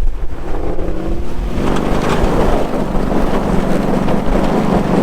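Vehicle engine rising in pitch as it accelerates, then running steadily under load with road and wind rush.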